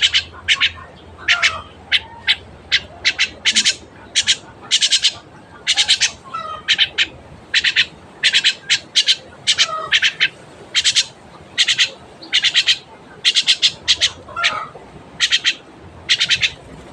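Pet bird squawking over and over, harsh calls one or two a second, each a quick rattle of several pulses.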